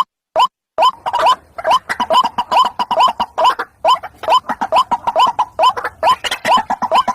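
White-breasted waterhen calling: a fast run of short, rising notes, about two to three a second. About a second in, the calls grow denser and overlap, with a faint hiss behind them.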